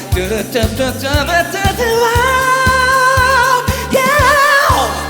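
Live pop band performance with a steady beat and a male voice scat-singing 'doo-doo-doo' syllables. The voice then holds a long note with vibrato that slides down near the end.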